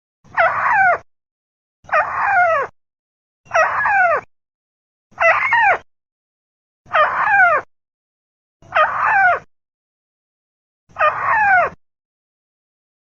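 Crake (burung tikusan) call played as a bird lure: seven harsh calls, each sliding down in pitch, repeated evenly about every one and a half to two seconds with silence between them.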